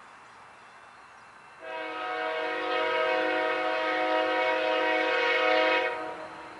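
Locomotive air horn sounding one long blast of about four and a half seconds, several notes at once as a chord, starting a second and a half in and fading out near the end.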